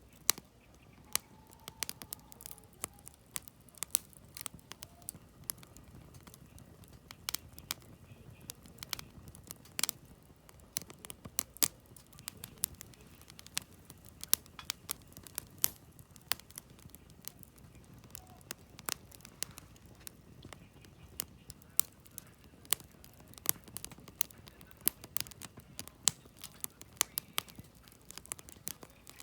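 Wood campfire burning, with logs crackling and popping in frequent irregular snaps over a low, steady rush of flame.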